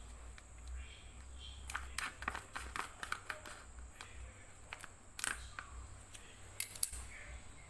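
Scattered light clicks and taps of small objects being handled, with a few sharper clicks about five and seven seconds in, over a faint low hum.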